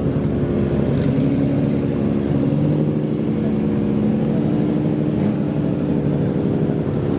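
Engine of a custom kaido racer-style old car running steadily, holding an even pitch without revving up or down.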